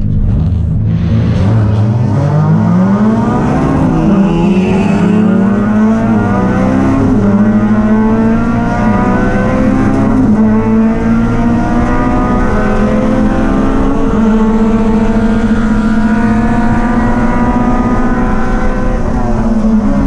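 Race vehicle engine accelerating hard, its pitch climbing over the first few seconds, then running at high revs with a few brief dips in pitch before holding steady, and falling off near the end.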